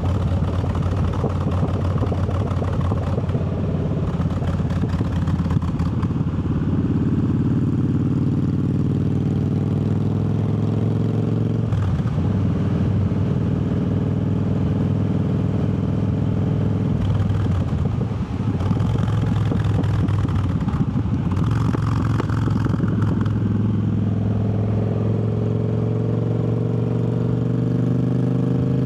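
Triumph Bobber's parallel-twin engine under way, its pitch climbing as it pulls through the gears, with short drops in revs at shifts about twelve and eighteen seconds in and another climb near the end. Steady wind rush on the microphone throughout.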